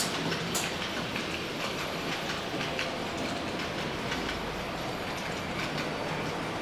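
Model trains running on the layout track: a steady running noise with many small clicks of wheels over rail joints, and two sharper clicks right at the start.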